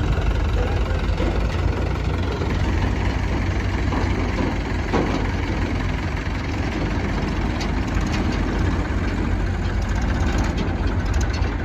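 Heavy diesel engine idling steadily, with a strong low rumble and a few faint clicks over it.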